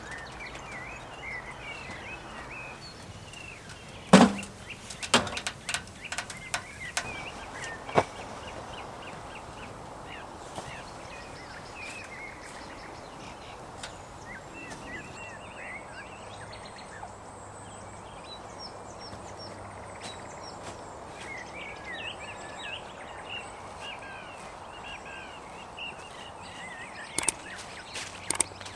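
Small birds chirping and singing in woodland over a steady outdoor background hiss. A few sharp knocks break in: a loud one about four seconds in, several more over the next few seconds, and a cluster near the end.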